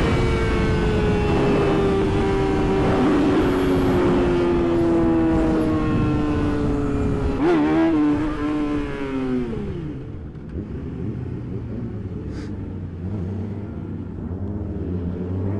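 Yamaha R6 inline-four sport-bike engine heard from the rider's seat with wind rushing past. The engine note falls steadily as the bike decelerates, with a brief wobble in pitch about seven and a half seconds in. Then the revs drop away and the wind noise stops about ten seconds in, leaving a low steady engine note, and the revs begin to climb again near the end.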